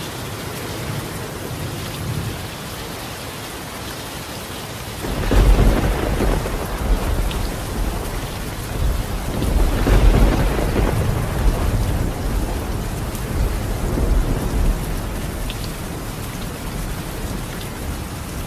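Steady heavy rain on a tiled roof, with thunder that breaks in suddenly about five seconds in, rumbles in several swells and dies away a few seconds before the end.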